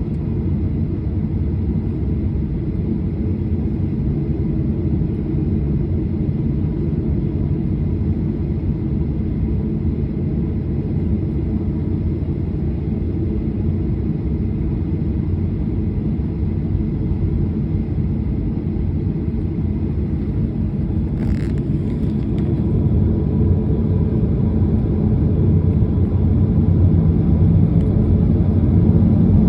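Jet airliner cabin noise: a steady low engine and airframe rumble, growing a little louder over the last several seconds, with a brief click about 21 seconds in.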